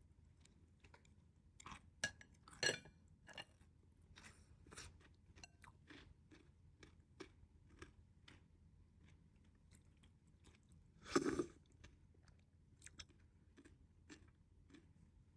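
Faint chewing and small mouth clicks of someone eating, with a few louder crunches about two to three seconds in and a louder half-second slurp of soup from a spoon about eleven seconds in.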